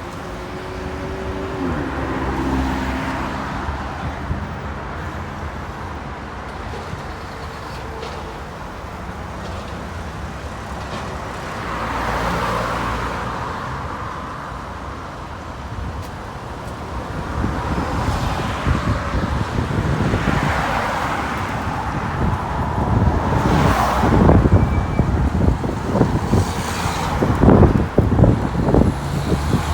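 Road traffic with several motor vehicles passing one after another, each rising and falling in turn. At the start, one engine's droning tone fades as it pulls away.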